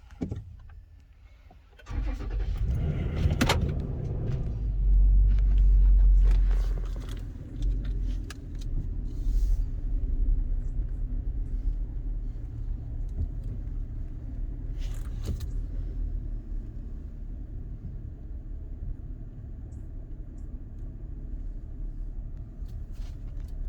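Toyota 4Runner's 4.0-litre V6 starting about two seconds in, rising briefly, then settling to a steady idle.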